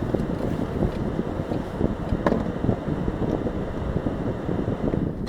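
Wind buffeting the microphone: a steady, rough low rumble with irregular gusty flutter.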